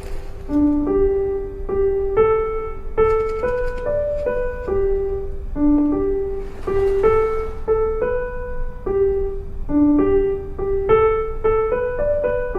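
Piano music: a gentle melody played one note at a time at a moderate pace. A few brief soft hisses sound along with it.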